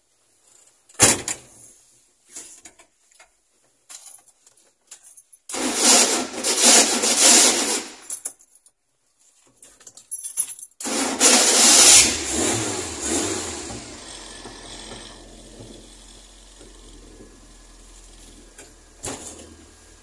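A sharp knock about a second in. Then the race-prepared Fiat 147's engine is cranked for a couple of seconds without catching. A second attempt a few seconds later fires it, and it settles into a steady idle.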